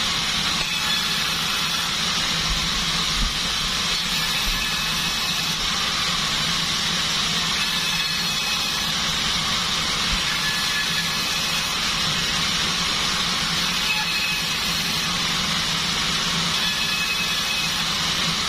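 Sawmill bandsaw running steadily: a low motor hum under a continuous hiss from the blade.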